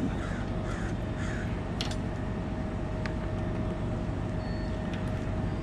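Bucket truck running steadily, a constant hum with one steady tone. A few faint short calls sound in the first second or so, and a sharp click comes about two seconds in.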